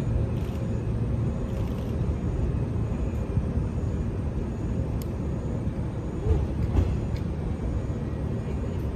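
Steady low rumble of an electric train, with a few faint clicks.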